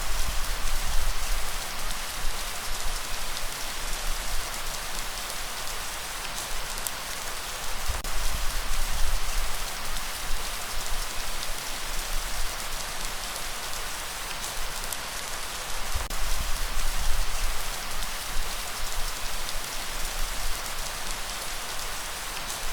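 Steady, dense rain hiss. Low rumbles swell under it about every eight seconds.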